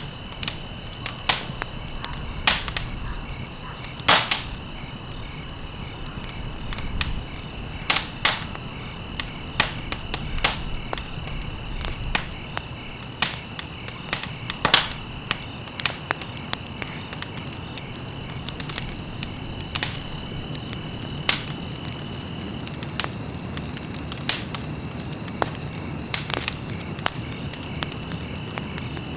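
Wood fire crackling in a fireplace: irregular sharp pops and snaps, a few louder ones standing out, over a steady low rumble of burning. A faint, steady high-pitched tone runs underneath.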